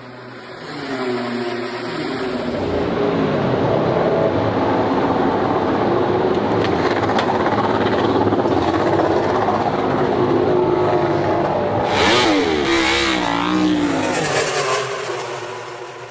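MotoGP race motorcycle engine at high revs, building over the first few seconds and staying loud. About twelve seconds in the pitch jumps rapidly up and down with sharp crackles, then the sound fades away near the end.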